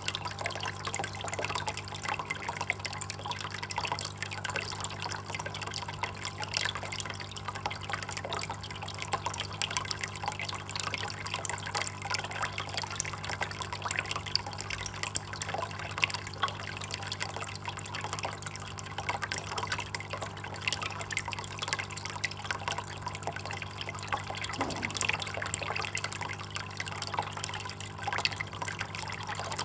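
Water trickling and dripping: a continuous patter of many small, irregular drips over a steady low hum.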